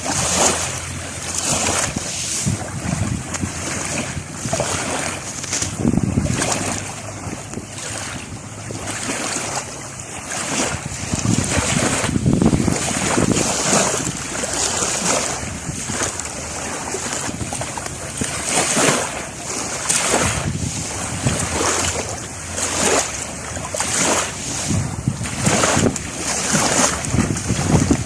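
Sea waves washing and breaking in irregular surges, with wind gusting against the microphone.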